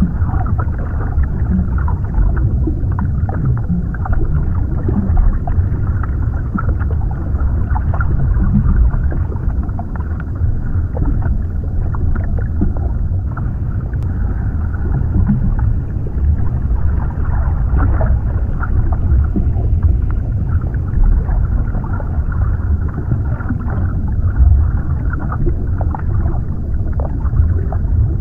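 Underwater ambience: a steady, muffled deep rumble with many small crackles and pops, and almost no high end.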